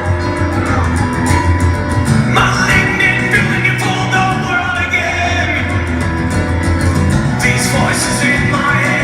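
A rock band playing an acoustic set live, loud and continuous, with singing or a lead line weaving over the accompaniment.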